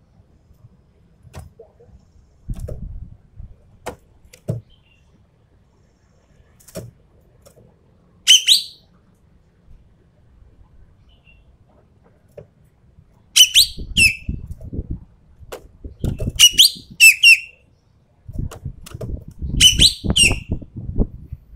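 Sumatran ekek keling bird giving short, sharp, harsh calls that each drop in pitch, singly and in quick pairs, about six in all. Clicks and bouts of low rumbling noise come and go alongside, loudest in the second half.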